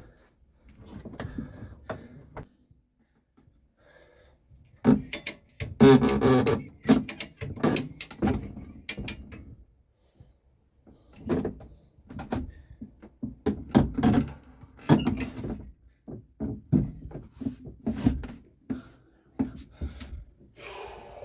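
Irregular clunks, knocks and scraping as a boat's inboard engine, freed from its mounts, is lifted and shifted across the engine bay.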